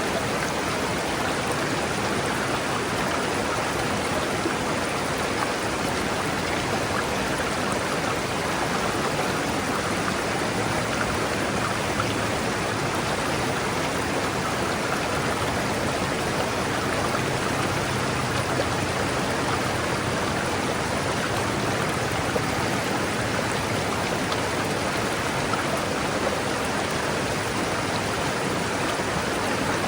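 River water rushing and splashing over rocks, a steady, even flow of water noise.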